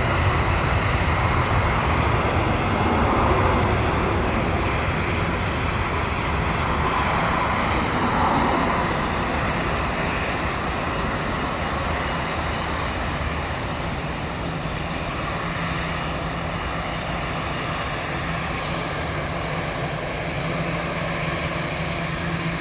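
Jet airliner engines running with a steady roar, loudest over the first eight seconds or so and then slowly fading as the aircraft draws away.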